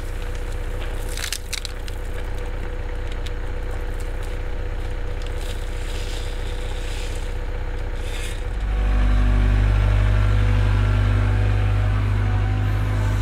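Cat 307 excavator's diesel engine running, with scattered scraping and crunching of material in the first part. About eight and a half seconds in the engine note steps up sharply louder and deeper, as the machine comes under hydraulic load.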